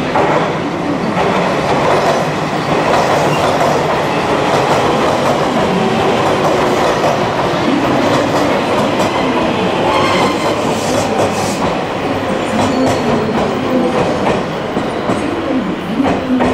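JR West 283 series limited express electric train rolling into a station platform and slowing to a stop, its wheels clattering over rail joints and points.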